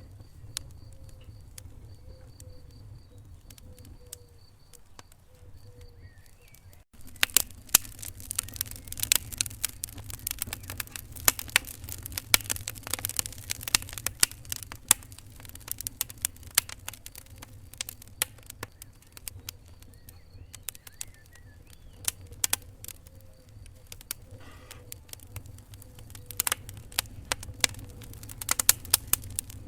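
Wood fire in a fireplace crackling and popping over a low steady rumble. The crackle is sparse at first, then after a brief dropout about seven seconds in it turns dense, with many sharp pops.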